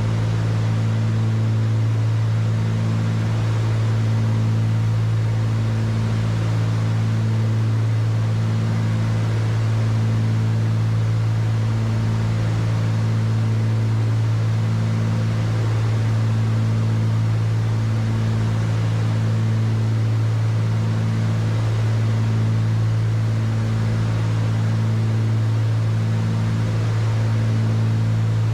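Cockpit drone of a Cessna 310Q twin's two six-cylinder piston engines and propellers in cruise flight, steady and loud, with a slow regular throb every second or two over a constant hiss of air.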